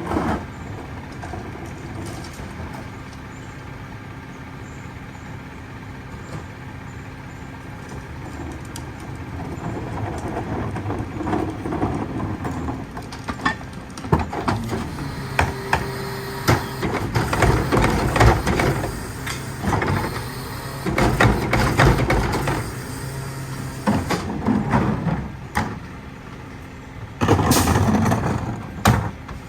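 Peterbilt 520 garbage truck with a Heil DuraPack 5000 rear loader, its engine running steadily. From about ten seconds in come repeated clattering and banging, loudest near the end, typical of trash being loaded and packed.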